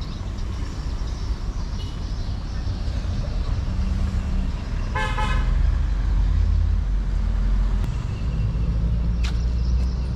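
Motorcycle engine running steadily on the road, with one short vehicle horn toot about halfway through.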